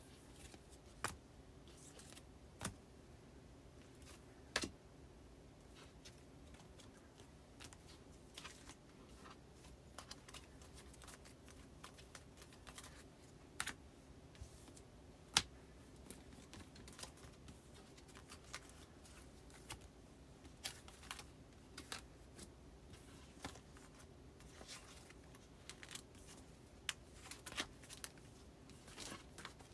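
Postcards being handled and slid into the plastic pockets of a filing binder: irregular light taps, clicks and rustles of card and plastic.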